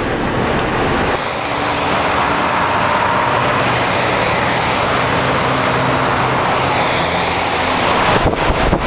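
Steady road and wind rush of a car driving at highway speed, with a faint low engine hum under it. A few short knocks come near the end.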